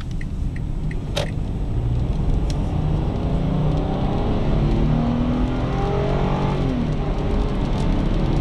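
2012 Kia Sorento SX AWD's engine accelerating hard under load, its note climbing steadily in pitch, then dropping back near the end as the automatic shifts up. A single sharp click sounds about a second in.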